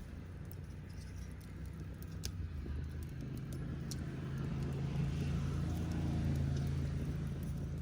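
Wood fire crackling with scattered sharp pops, while a passing vehicle's engine hum swells up about halfway through and eases off near the end.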